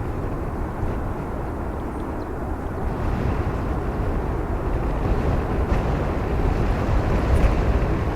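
Airliner engine noise: a steady low rumble that grows slightly louder toward the end.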